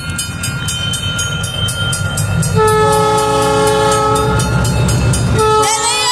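Train passing a railroad crossing: the locomotive rumbles low while the crossing bell rings rapidly, and the train horn sounds a long chord about two and a half seconds in, then again near the end.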